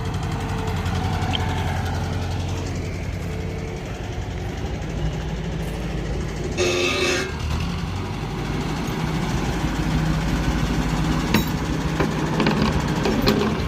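Engine of a loader machine running steadily. A brief higher-pitched sound comes about seven seconds in, and a sharp knock a little after eleven seconds.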